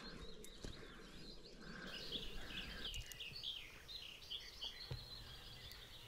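Faint bird chirping: a quick run of short, high notes from about two seconds in, over faint background noise.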